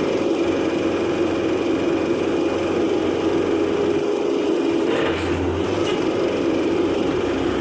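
Bronneberg RR6 car baler running: a steady mechanical drone from its engine and hydraulic power unit, with a short noise about five seconds in.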